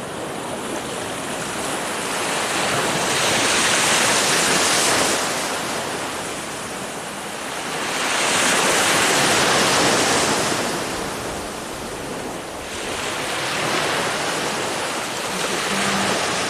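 Ocean surf, waves washing in and drawing back. The rush swells and fades three times, about every four to five seconds.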